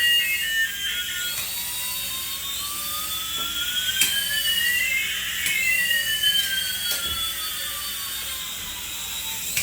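Electronic whine effect: two pure tones glide slowly over several seconds, one rising and one falling, crossing near the middle, with a few faint clicks.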